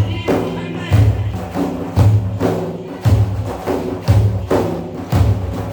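Hand-beaten frame drums playing a steady rhythm for madih praise singing, a deep booming stroke about once a second with lighter, sharper strokes in between.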